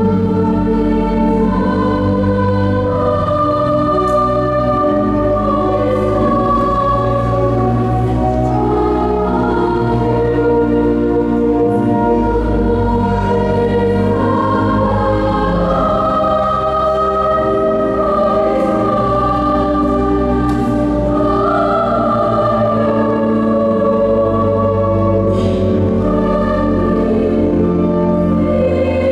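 Choir singing slow, sustained chords with pipe organ accompaniment holding low bass notes underneath.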